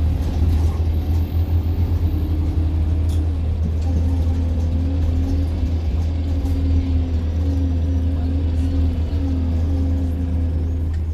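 Bus engine and drivetrain running, heard inside the passenger cabin: a steady low rumble with a humming tone over it that wavers up and down from about a third of the way in.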